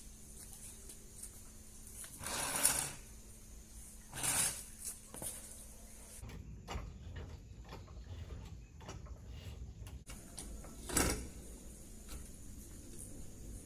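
Car jack being worked to raise the rear of a Honda Civic: mechanical clicks and scraping, with a few short rushing swells about 2 seconds in, 4 seconds in and near 11 seconds.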